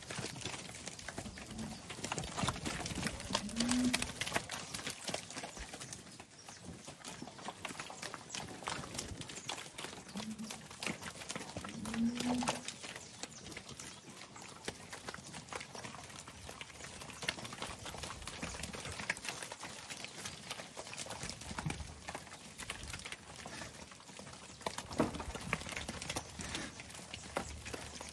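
A herd of crossbred heifer calves moving about: scattered hoof steps and knocks throughout, with a few short low calls from the calves in the first half.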